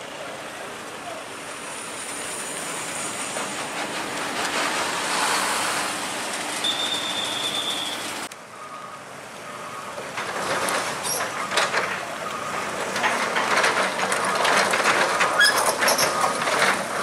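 Heavy recovery machinery working, with grinding, metallic clanking and squealing. The sound breaks off abruptly about eight seconds in, then comes back with rapid clanks and an intermittent beeping tone.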